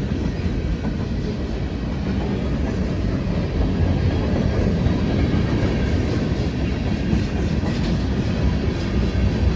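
Freight cars of a long CSX freight train rolling past, wheels on rail making a steady low rumble.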